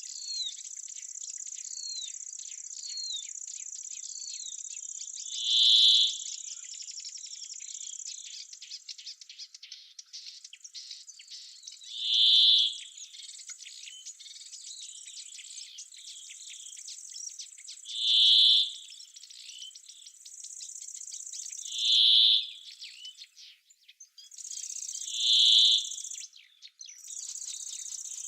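Insects trilling steadily in a high-pitched buzz, with a bird singing a short loud call five times, every four to six seconds, over it. The buzz breaks off briefly twice.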